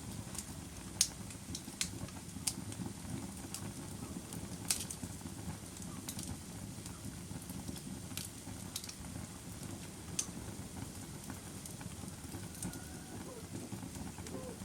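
Wood fire burning: a steady low rush of flames with irregular sharp crackles and pops, the loudest about a second in and near five seconds in.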